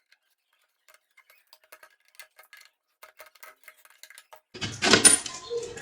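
Faint, scattered small clicks and ticks as the fasteners on a metal street-light housing are worked open by hand. Near the end comes louder clattering and scraping as the housing is handled.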